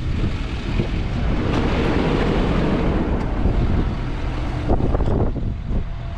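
Truck engine running with a steady low rumble and wind or air rushing noise on the microphone, the rushing swelling for a couple of seconds about a second and a half in.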